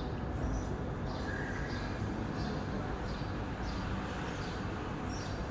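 Short high chirps repeating about every half second, like a bird calling, over steady background noise.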